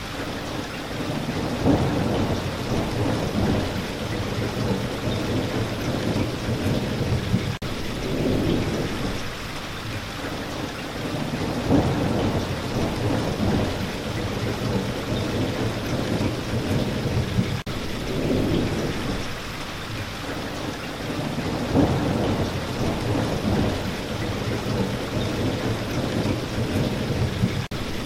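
Steady rain falling, with low thunder rumbles swelling and fading about every ten seconds.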